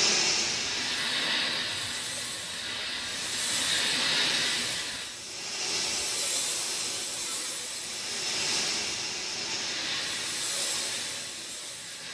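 Steady rain, an even hiss that swells and eases every two seconds or so.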